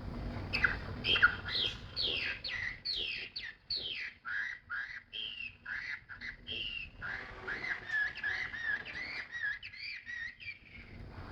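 Caged songbird singing: a quick, continuous run of short whistled notes and chirps, over a low background rumble.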